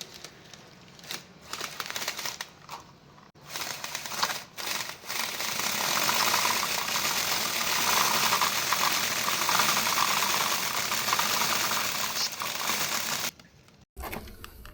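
Bicycle chain and drivetrain rattling as the cranks are turned during chain cleaning. A few scattered clicks come first, then a steady fast clatter starts about five seconds in and stops abruptly just before the end.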